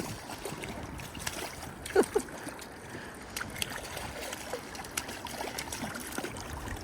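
Creek water running and trickling, with scattered small splashes and clicks and one short, sharper sound about two seconds in.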